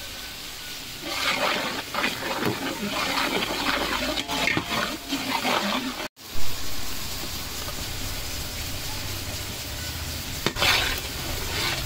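Spiced onion paste frying in hot oil in a large aluminium pot, sizzling and bubbling as a metal skimmer stirs it.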